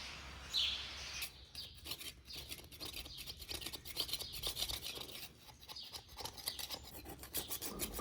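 Putty knife scraping at head-gasket residue stuck fast to the top of an International 1066 engine block, in quick irregular strokes that start about a second in. A single bird chirp is heard just before the scraping starts.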